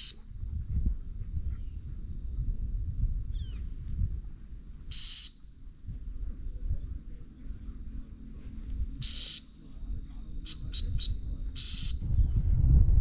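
Dog training whistle blown as commands to a retrieving dog: single blasts at the start, about five seconds in and about nine seconds in, then three quick pips and another blast near the end. A faint steady high-pitched hum runs underneath.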